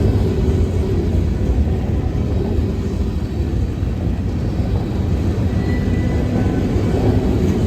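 CSX freight train running by with a steady low rumble, faint thin squeals coming and going above it.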